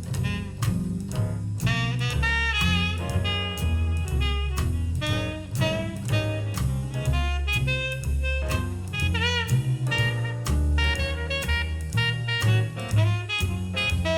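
A jazz recording played back over Elfton Vegas II four-way loudspeakers and picked up in the room: a wavering lead horn melody over bass notes, with a steady drum beat of about two to three strokes a second.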